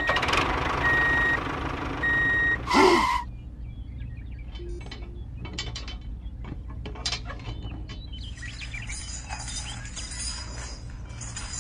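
Three reversing-style beeps over a rushing noise, then a loud short swooping sound about three seconds in. After that, light clicks and clinks as small metal hitch parts and a thin tow chain are handled, the chain jingling near the end.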